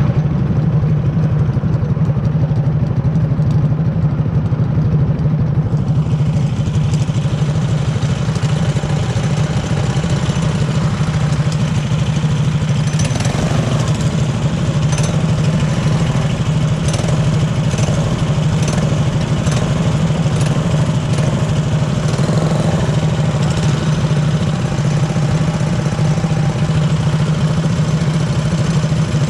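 Small single-seat race car's engine idling steadily close to the microphone, with a constant low note.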